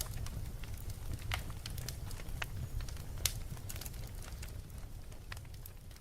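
Fire crackling: scattered sharp pops over a steady low rumble, with one louder pop about halfway through. It fades down near the end.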